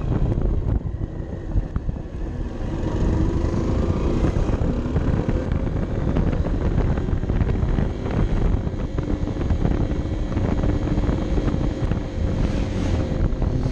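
Honda CB 125 F's single-cylinder four-stroke engine running at a fairly steady pitch as the motorcycle rides along, with the pitch shifting now and then. Heavy wind rumble on the onboard microphone runs under it.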